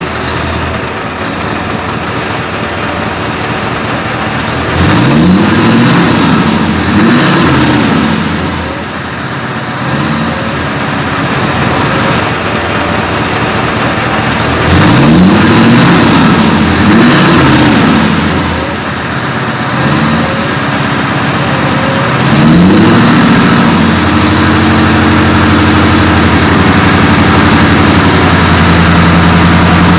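Scania R730's 16-litre V8 diesel running through a side-pipe exhaust: it idles, is revved up and back down three times, and then holds at a steady higher speed for the last several seconds. A short high-pitched whistle follows each of the first two revs.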